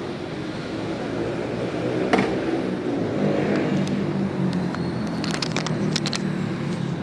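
Rusi DL125 motorcycle engine running steadily while riding, a low, even drone. A single sharp click comes about two seconds in, and a quick cluster of clicks about five to six seconds in.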